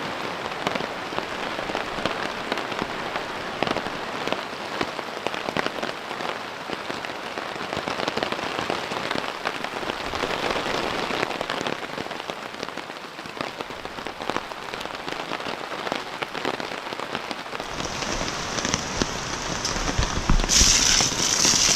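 Steady rain pattering on a tarp overhead, with many individual drops heard through the hiss. Near the end a louder rustle and a low thump cut in over it.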